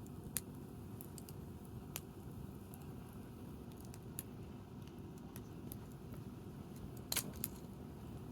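Wood campfire crackling: scattered sharp pops and snaps over a low steady burn, with a louder double snap about seven seconds in.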